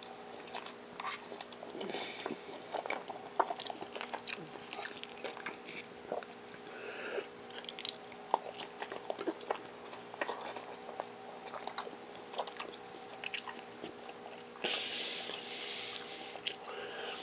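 A person chewing a mouthful of saucy pulled beef on soft white bread, with many small wet mouth clicks scattered through it. A steady faint hum runs underneath, and there is a short hiss near the end.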